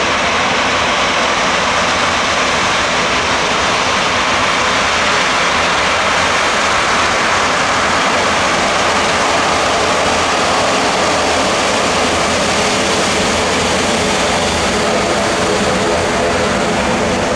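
Airbus A350-1000 jet engines (Rolls-Royce Trent XWB-97) running, heard as a loud, steady engine noise with no clear rise or fall.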